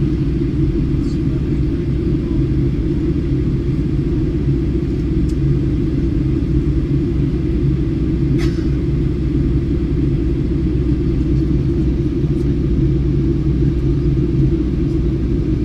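Steady low drone inside an airliner's cabin: engine and airflow noise heard from a passenger seat, with a faint click about halfway through.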